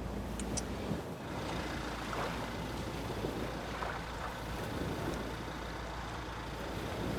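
Strong wind buffeting the microphone: a steady low rumble under an even hiss.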